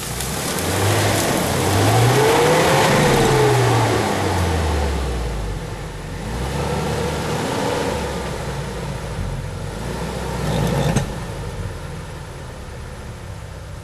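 Off-road 4x4's engine revving in two surges, the pitch rising and falling, with a sharp knock about eleven seconds in. The rear axle is not driving.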